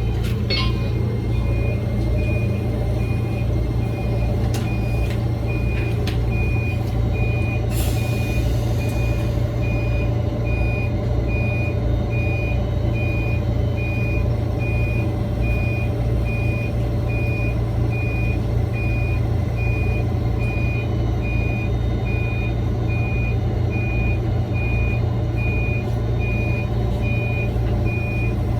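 Electric commuter train running, a steady low rumble with a motor hum, while a high beep repeats in an even on-off pattern throughout. A short hiss, like a release of air, comes about 8 seconds in.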